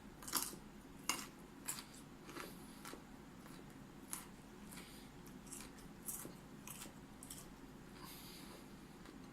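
Close-up chewing of raw broccoli: crisp crunches, loudest in the first couple of seconds, then softer, sparser chewing.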